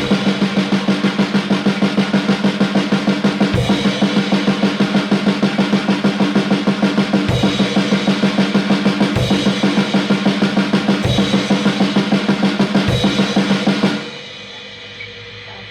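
Drum kit played in a fast, even rhythm, about six strokes a second, with heavier accented hits every two seconds or so. It stops abruptly about two seconds before the end.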